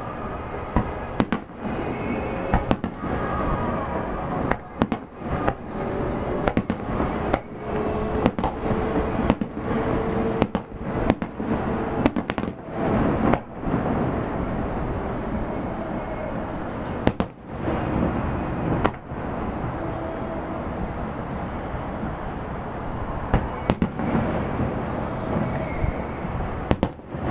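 Aerial fireworks bursting: a steady rumble broken by many sharp bangs, most thickly in the first half.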